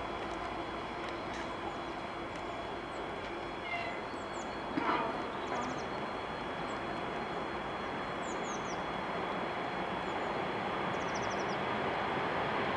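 Train running with a steady noise that grows slightly louder toward the end, with a brief sharp sound about five seconds in. Small birds chirp briefly a few times above it.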